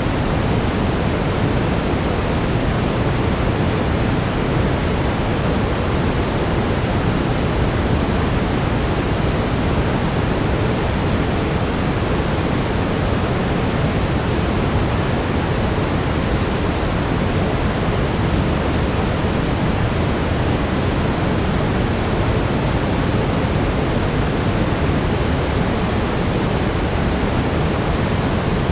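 Steady synthetic brown noise: an even, unchanging rushing hiss, heaviest in the bass and fading toward the treble, with no events or changes.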